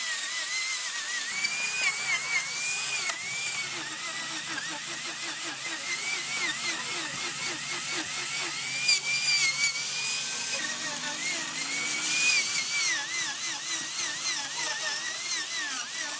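High-speed power tool whining, its pitch dipping and recovering over and over as it works the wood.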